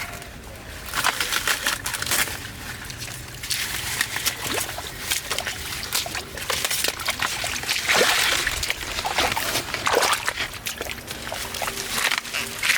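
Water sloshing and splashing in irregular strokes, the loudest about eight seconds in.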